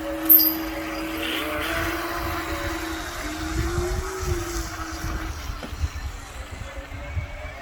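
Radio-controlled Fairey Huntsman model boat's motor running with a steady hum. Its pitch rises and falls about four seconds in, then it fades out after about five seconds. A brief sharp sound comes just after the start.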